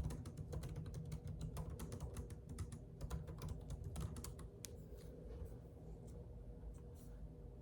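Typing on a computer keyboard: rapid, dense key clicks that thin out about four and a half seconds in to a few scattered clicks, over a low steady hum.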